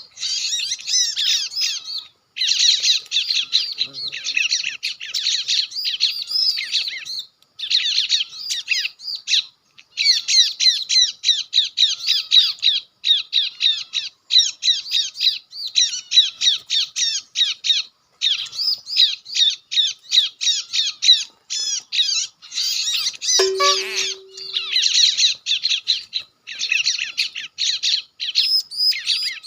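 Bar-winged prinia (ciblek batik) calls, a rapid, continuous chattering song played as a lure from an MP3 recording through a small loudspeaker, with brief breaks every second or two. About 23 seconds in there is a single knock followed by a short low hum.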